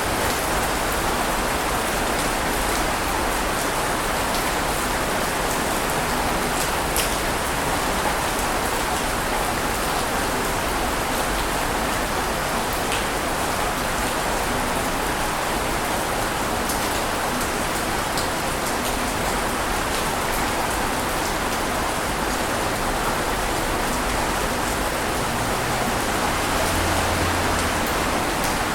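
Steady, even rushing of water, a dense hiss that holds one level throughout, with scattered faint ticks like drops.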